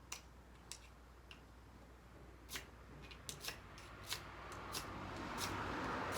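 Pine-cone kindling being lit in a small metal fire stand: scattered sharp crackles and clicks, with a hiss building from about four and a half seconds in.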